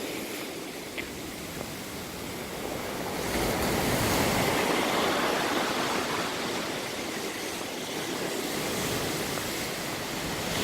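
Ocean surf washing against the shore, a steady rushing wash that swells about three seconds in and again near the end.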